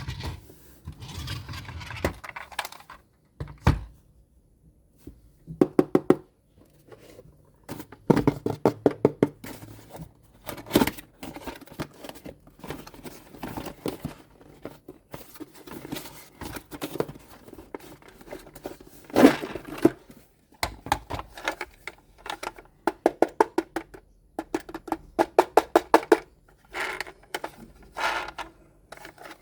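Toy unboxing handling sounds: repeated runs of quick clicks and rattles from plastic toy parts and packaging, with occasional knocks and crinkling.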